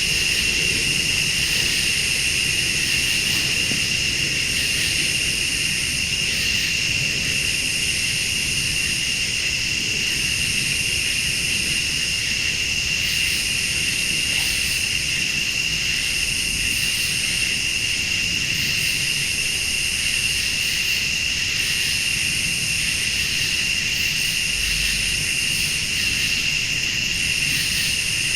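Late-summer night chorus of crickets and other insects: one steady high trill with a higher pulsing chorus that switches on and off every second or two, over a low rumble.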